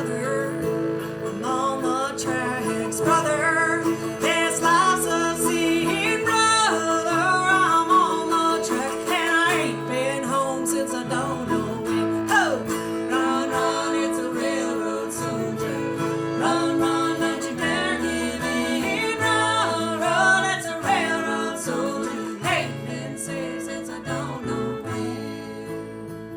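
Live bluegrass band playing acoustic string instruments, with guitar and a bending melody line over sustained lower notes, growing a little quieter near the end.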